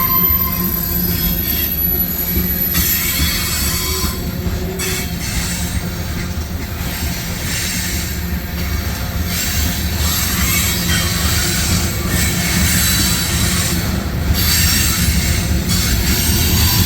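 Freight cars of a long CSX mixed freight train rolling past at close range: a steady rumble and rattle of steel wheels on rail. A thin, high wheel squeal sounds over it for the first few seconds, then stops.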